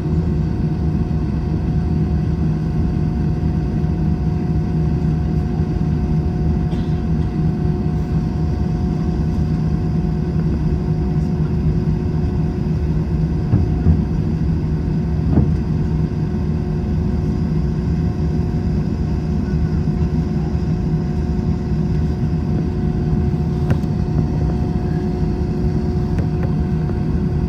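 Steady drone of an Airbus A321's engines and airflow heard inside the passenger cabin, with a low steady hum running through it. A couple of faint knocks stand out briefly in the middle.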